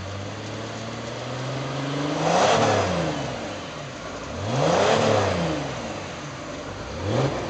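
Mercedes CLS320CDI's 3.0 V6 turbodiesel through a quad-tailpipe performance exhaust, revved from idle: two full revs that climb and fall back, then a quick short blip near the end.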